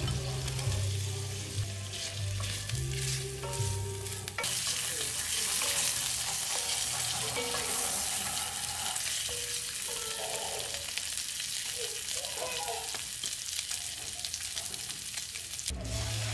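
Bacon cubes and garlic sizzling in hot olive oil in an enamelled cast-iron pan, stirred with a utensil. The frying hiss gets much louder about four seconds in.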